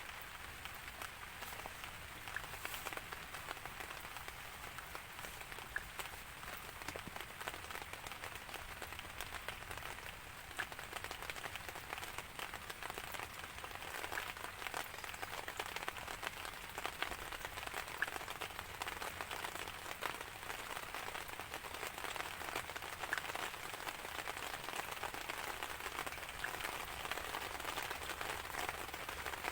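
Steady rain falling on a surface, with many individual drop hits ticking through it. No thunder in this stretch.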